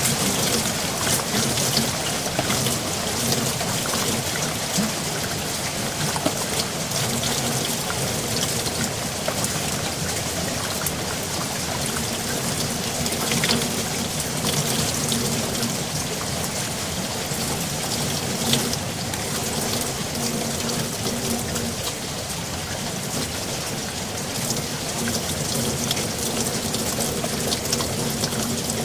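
Steady rain falling, with many sharp individual drop hits over an even rushing hiss.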